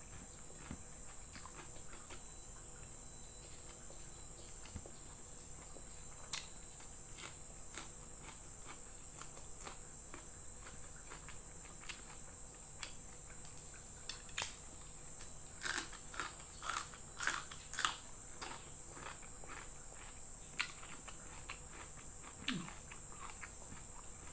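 Close-up eating sounds of a meal of fried chicken liver, noodles and raw vegetables eaten by hand: quiet chewing with scattered small clicks, and a run of louder crisp crunches a little past the middle. A steady high-pitched hiss runs underneath.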